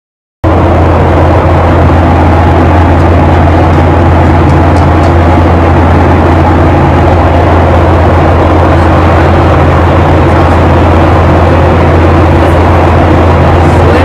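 A loud, steady low hum with a rushing noise over it, starting abruptly about half a second in and running unchanged.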